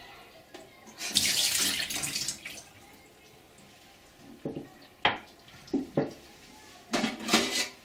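Water runs from a tap into a sink for about a second and a half, then stops. A few short knocks and clatters follow.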